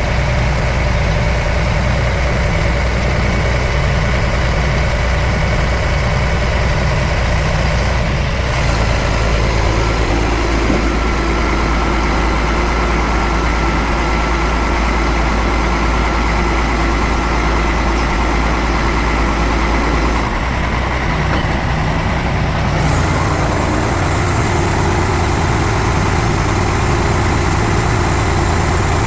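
Iveco 380E42 6x6 truck's diesel engine idling steadily, its sound shifting slightly about eight seconds in and again about twenty seconds in.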